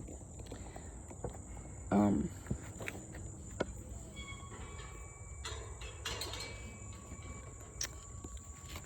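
Insects trilling in a steady, high-pitched drone, with scattered footsteps and rustling. A short voiced sound comes about two seconds in.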